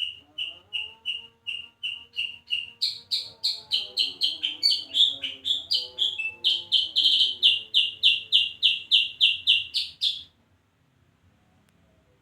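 A songbird calling a long series of short, sharp chirps, about three a second at first, then faster and louder. The series stops abruptly about ten seconds in. Faint gliding lower tones sound underneath.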